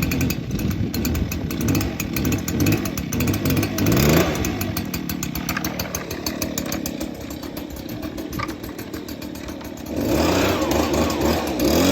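Handheld leaf blower's small gas engine running just after a cold start. It revs up briefly about four seconds in, settles lower, then revs up louder near the end.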